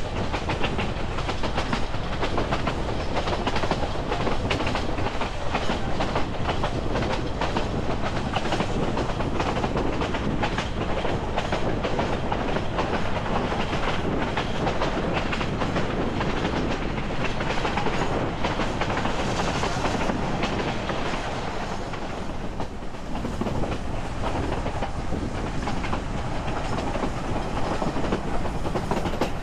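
Narrow-gauge passenger coach rolling along the track: a steady rumble of wheels on rail with a continual run of clicks and clacks over the rail joints.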